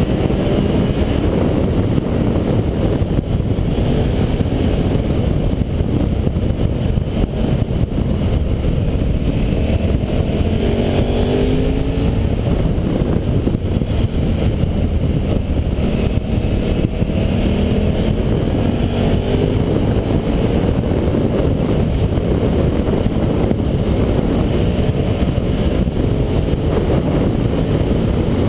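Motorcycle V-twin engine running under way, the pitch rising and falling as the rider accelerates and changes gear, over steady wind rush on the microphone.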